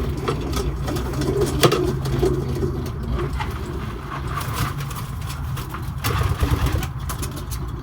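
White homing pigeons cooing in their loft, over a steady low hum, with scattered knocks and rustles, the strongest about two seconds in.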